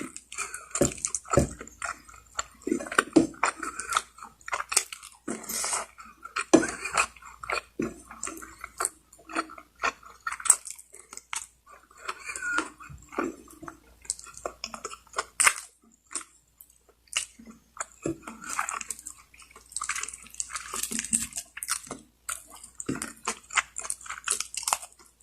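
A person chewing and biting lechon manok (Filipino spit-roasted chicken) close to the microphone: irregular short smacks and clicks, with a brief pause about sixteen seconds in.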